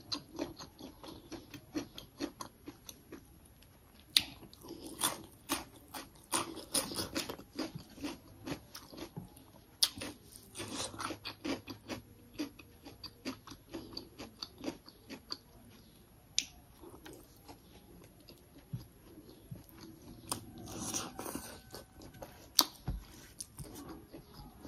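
A person chewing a chicken and rice meal eaten by hand, with irregular wet smacks and small clicks of biting and chewing.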